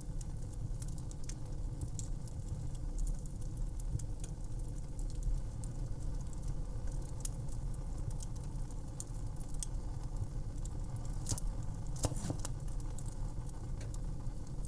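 Wood fire crackling: scattered sharp snaps and pops over a steady low rumble, with two louder pops about three quarters of the way through.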